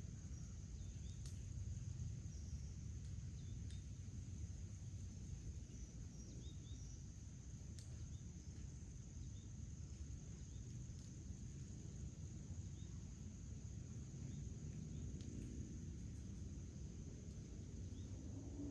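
Backyard ambience: a steady high-pitched drone of insects such as crickets, with a few faint short bird chirps over a low rumble.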